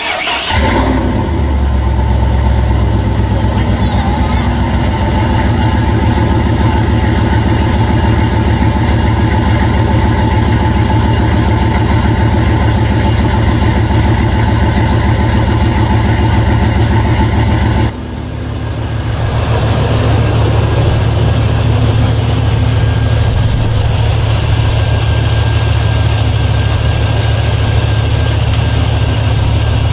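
Truck engine starting and then running steadily at idle, with the fan clutch just tightened fully on; it runs well. The tone shifts abruptly a little past halfway through.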